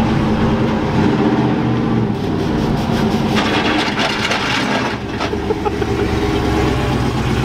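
A vehicle's engine running steadily at idle.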